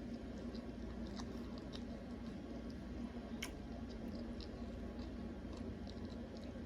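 Quiet chewing of food close to the microphone, with scattered faint mouth clicks and one sharper click about three and a half seconds in.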